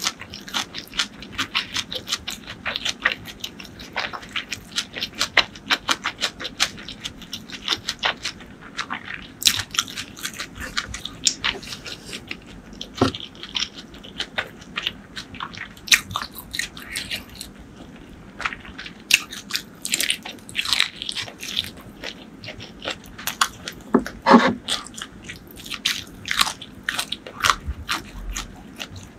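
Close-miked chewing of crunchy fried food: dense, rapid crackly crunches, thinning briefly in the middle, with one louder, deeper mouth sound near the end.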